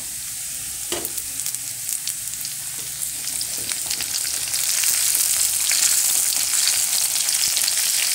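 Shallots, garlic and red chilies sizzling and crackling in hot oil in a wok as they are stirred, the sizzle getting louder about halfway through.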